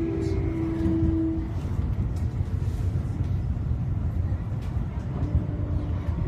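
Keio 8000 series electric train running, heard inside the car: a steady low rumble of wheels on rail. A motor whine falls slightly in pitch and fades out in the first second and a half. A few faint clicks follow.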